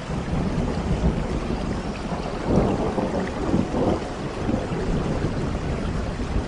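Steady rain with a low rumble of thunder that swells about two and a half seconds in.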